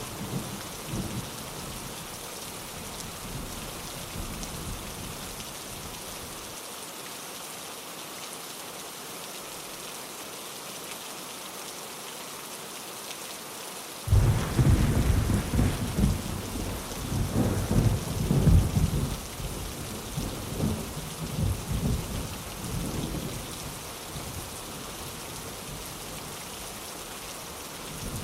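Steady heavy rain, with a sudden low rumble of thunder about halfway through that rolls on for several seconds and dies away; another roll begins right at the end.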